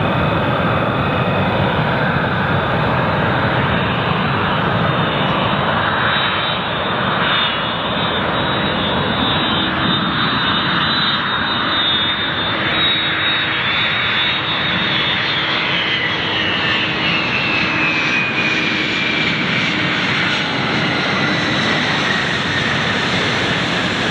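Jet airliner's engines running loud and close, a steady roar with a high whine that falls in pitch about two-thirds of the way through as the plane goes past.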